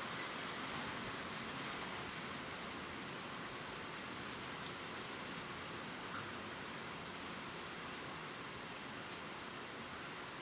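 Steady gentle rain pattering on leaves, an even hiss with faint scattered drop ticks.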